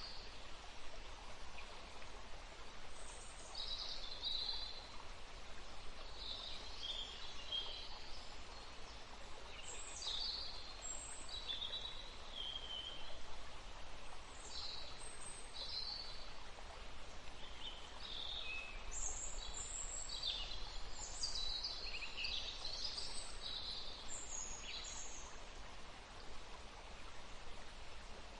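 A small woodland stream running steadily, with many songbirds calling over it in short chirps and trills. The calls are most frequent about two-thirds of the way through.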